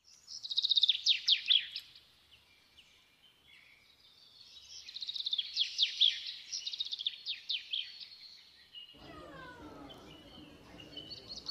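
A songbird singing in repeated phrases of quick, falling whistled notes, with short pauses between phrases. About nine seconds in, a low outdoor background hum joins the birdsong.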